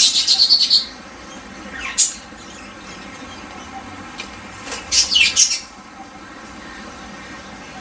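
Small birds chirping in short bursts: a quick run of chirps at the start, a single call about two seconds in, and another cluster of chirps around five seconds in.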